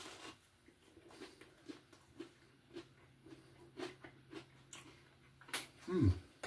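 A person chewing a bite of crusty pizza sub with the mouth near the microphone: soft, irregular crunches and mouth clicks. Near the end a short vocal sound drops in pitch.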